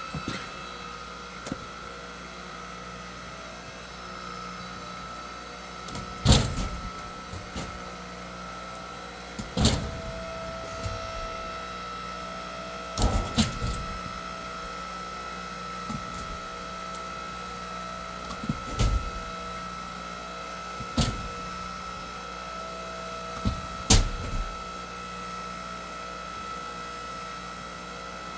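Engine-driven hydraulic log splitter running with a steady hum, broken by six loud, sharp knocks at irregular intervals.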